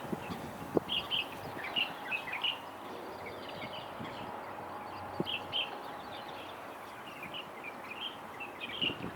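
Birds chirping: short, high calls come every second or so, singly and in quick pairs, over a steady background hiss.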